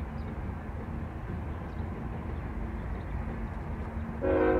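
Union Pacific diesel freight locomotives passing: a steady engine rumble and rail noise with a low drone. About four seconds in, a loud chord of several steady tones starts, like a locomotive horn.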